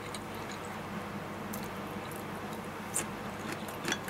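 A person chewing a mouthful of rice with fried tofu and green pepper, with wet mouth sounds. There are a few sharp clicks, the clearest about three seconds in and near the end, over a steady low hum.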